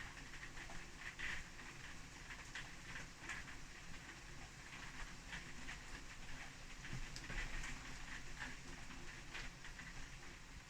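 Faint, irregular patter of light taps and clicks.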